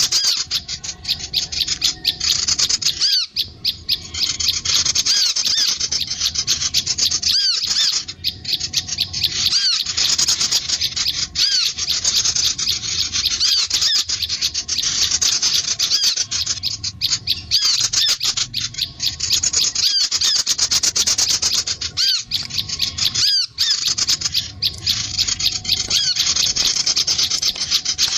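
Lure recording of small songbirds, sunbirds and prinias: a continuous fast, scratchy chattering of high notes broken by short whistled glides.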